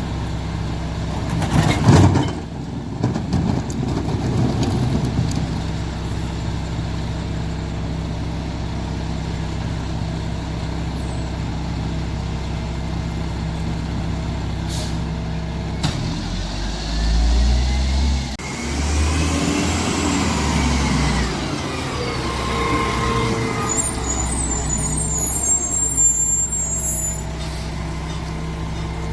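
Mack MR garbage truck's diesel engine idling, with a loud air-brake hiss about two seconds in. About halfway through the engine revs up with a high whine that rises and falls, then settles back to idle. Short high squeals sound near the end.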